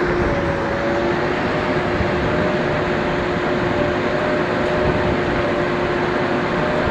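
Heavy diesel machine engine running steadily under load, with a constant whine over the engine noise.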